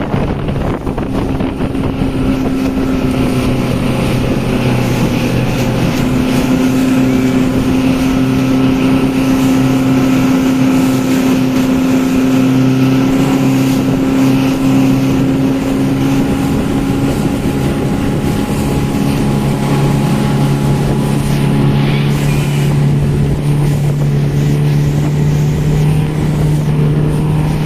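Speedboat engine running steadily under way, its pitch shifting a little now and then, over a steady rushing noise.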